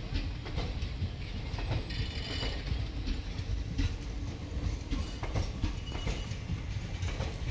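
Sabari Express passenger coaches rolling past close by: a steady low rumble with irregular clacking of wheels over rail joints, and a brief high squeal about two seconds in.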